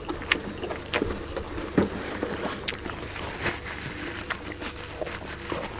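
Close-up eating sounds: chewing, with scattered short wet clicks and smacks, over a steady low hum.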